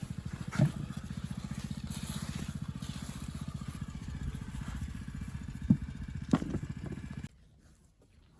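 A small engine running steadily with a fast, even beat, with a few sharp knocks over it. The engine cuts off suddenly near the end.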